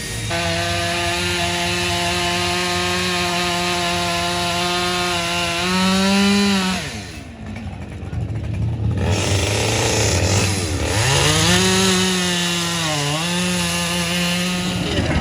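Chainsaw running at high revs, with the pitch sagging now and then as it cuts. About seven seconds in the revs fall away sharply. A few seconds later they climb back up.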